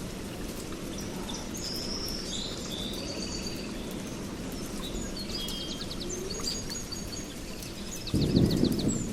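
Songbirds chirping, with short rapid trills, over a steady low background noise. A loud, low rumble of thunder breaks in near the end.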